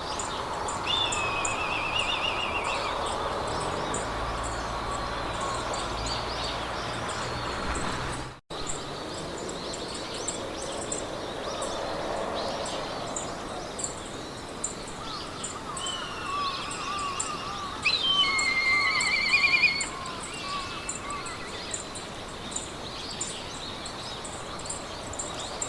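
Meadow soundscape: birds singing in warbling, trilling phrases over a steady hiss of wind in the grass, with a high insect-like chirp ticking evenly throughout. The sound drops out for an instant about 8 seconds in.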